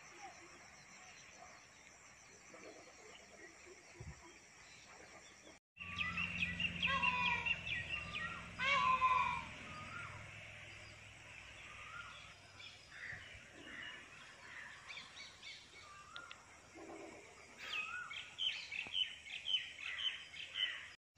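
Birds chirping and calling, faint at first, then a string of sharp rising and falling chirps, loudest after a brief break about a third of the way in. A low steady hum lies under the calls for a few seconds.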